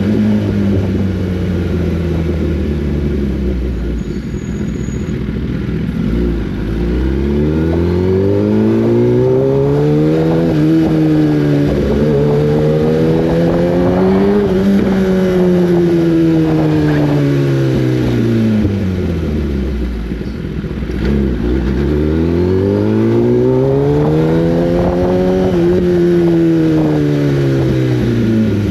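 An inline-four litre superbike engine on the road. It holds low, steady revs at first, then twice climbs smoothly for several seconds and eases back down.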